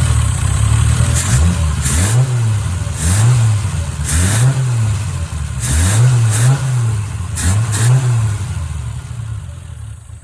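Freshly rebuilt Triumph TR6 straight-six engine running on its first start, revved in repeated short throttle blips about once a second, then settling lower near the end.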